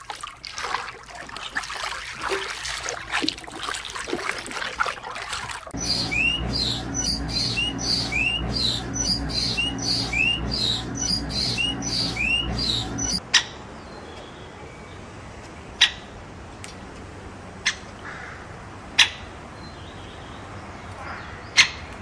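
Birds chirping: after a few seconds of scratchy rustling, a run of short chirps, each falling in pitch, about one a second, then several sharp clicks.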